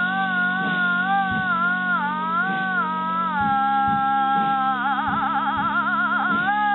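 Theremin playing one gliding tone that slides slowly up and down in pitch, with a fast wavering vibrato about five seconds in, over a steady low electrical hum.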